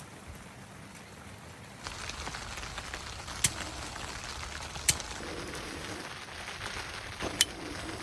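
Heavy rain falling steadily on a surface, growing louder about two seconds in. Three sharp taps of single heavier drops stand out, the last near the end.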